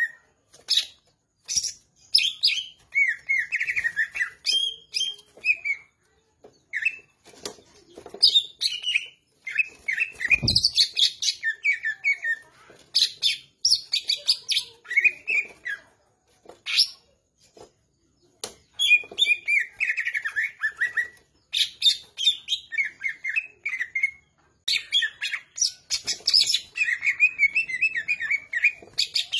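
Green leafbird (cucak ijo) singing in bursts of quick, varied chirps and whistled phrases, with short pauses between bursts.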